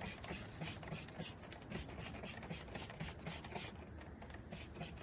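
Trigger spray bottle squirting degreaser in quick repeated pumps, about four short hisses a second, stopping about three-quarters of the way through.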